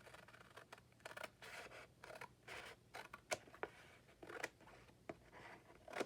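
Scissors cutting through paper, a faint run of irregular snips as collage paper is trimmed.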